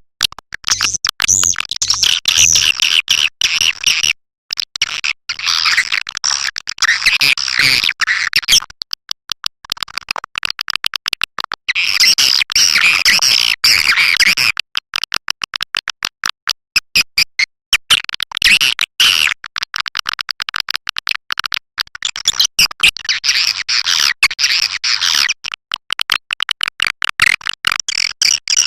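Swiftlet calling track of the kind played from swiftlet houses to lure birds: dense bursts of high twittering chirps alternating with stretches of rapid clicking.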